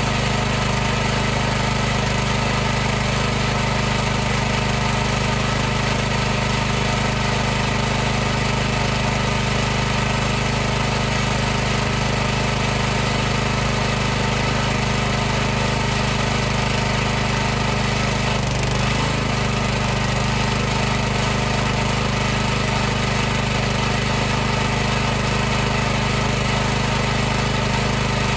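High-pressure washer pump and motor running steadily with an even machine hum over a hiss. Its pitch wavers briefly about two-thirds of the way through.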